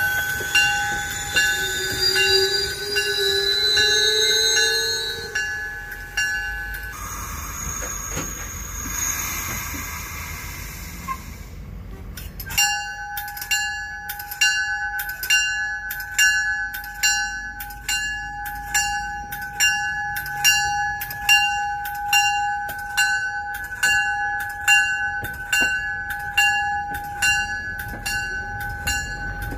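Commuter rail coaches rolling past with low wheel rumble and some wheel squeal in the first few seconds, while a grade crossing bell rings in a steady rhythm. The bell drops out for about five seconds in the middle, then resumes.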